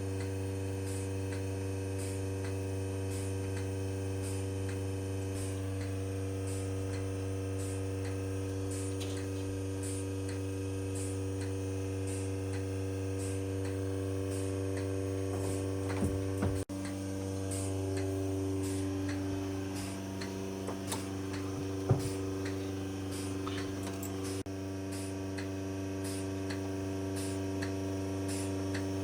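Steady mechanical hum with a faint, regular ticking; the hum's pitch shifts slightly about halfway through, and there is a single knock a few seconds later.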